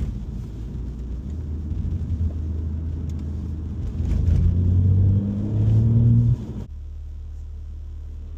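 BMW M4 Competition's twin-turbo S58 straight-six accelerating, rising in pitch and growing louder from about halfway through, then cutting off suddenly to a steady low drone of cruising.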